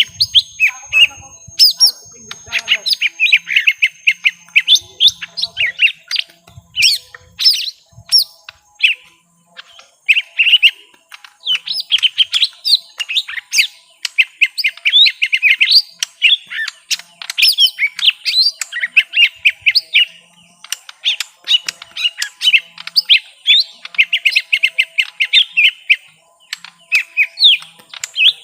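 Young lesser green leafbirds (cucak ijo mini) in a long aggressive calling duel: dense bursts of rapid chattering, squeaky notes and quick whistled sweeps, broken by short pauses.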